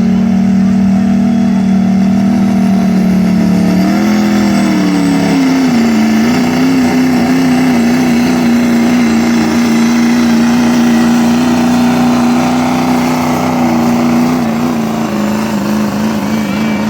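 Turbocharged diesel pickup engine at full throttle pulling a weight sled, a loud steady engine note that climbs in pitch about four seconds in, then holds and wavers near the end.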